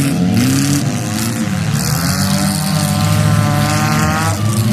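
Demolition derby cars' engines running hard and revving, several at once, their pitch rising and falling.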